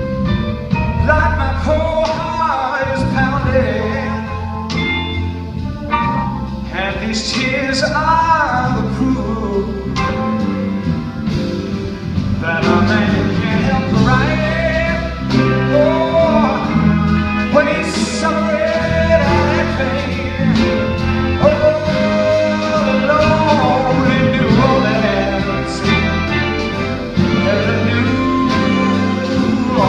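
A band playing a slow blues number: bass and drums under a bending, melodic lead line.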